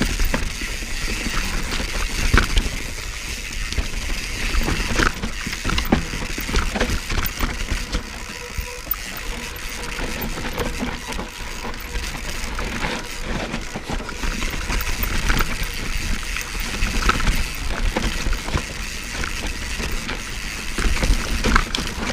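Mountain bike riding down a steep dirt trail, heard from a camera mounted on the rider or bike: tyres on loose dirt, frequent sharp clacks and rattles from the bike over rough ground, and a steady low rumble on the microphone.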